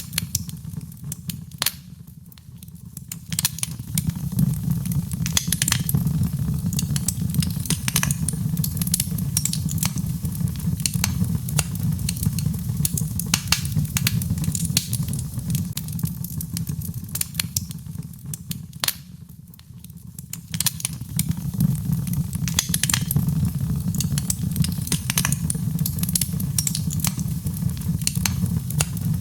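Birchwood burning in a fireplace: a low rumble of flames with frequent sharp crackles and pops. The rumble fades briefly about two seconds in and again near the twenty-second mark, then returns.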